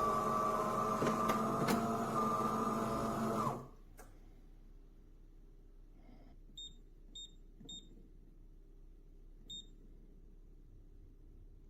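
Automatic espresso machine running with a steady whine, cutting off suddenly about three and a half seconds in. A few short, high beeps follow.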